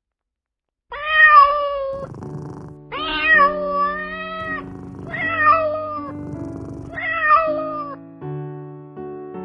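A cat meowing four times, each meow drawn out for about a second, over background piano music.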